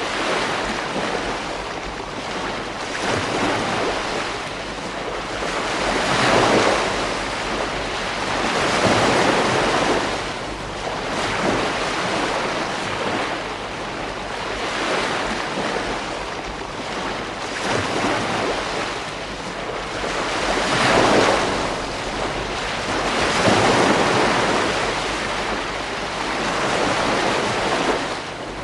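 Ocean waves breaking on a beach: a continuous wash of surf that swells and ebbs every few seconds, with a steady low rumble of wind underneath.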